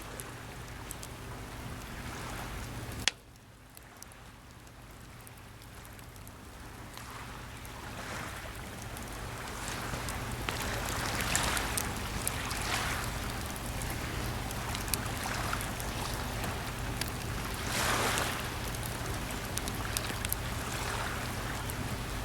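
Sea waves washing on the shore, swelling and fading every few seconds, with scattered small pops from a crackling campfire. A sharp click about three seconds in, after which the sound drops away and slowly builds again; a steady low hum runs underneath.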